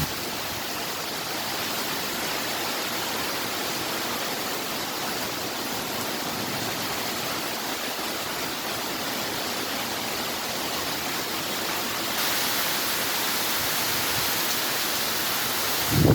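Heavy tropical rain squall pouring down as a steady, dense hiss, growing a little louder about three-quarters of the way through.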